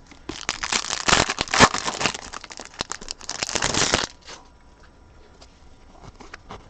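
Foil wrapper of a trading-card pack being torn open and crinkled for about four seconds, followed by a few faint clicks.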